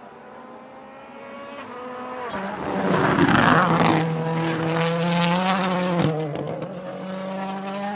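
A World Rally Car's turbocharged 1.6-litre four-cylinder engine approaching at full throttle, rising in pitch and loudest about three seconds in with a burst of tyre noise. It shifts up about six seconds in and pulls away under power.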